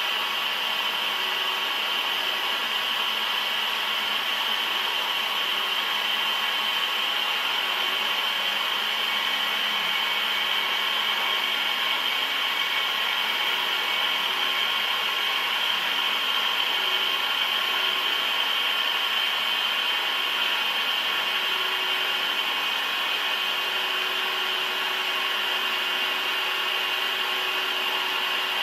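Heavy metal-cutting machine running steadily: a constant hiss with a high, even whine over it.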